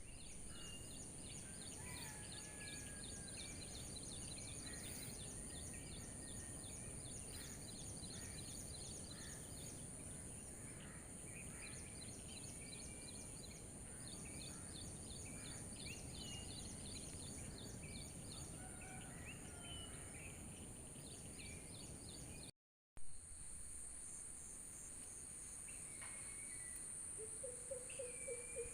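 Nature ambience: a steady high insect drone and rapid insect chirping, with scattered short bird calls over a low background rumble. The sound drops out briefly about three-quarters of the way through. A quick run of lower chirps comes near the end.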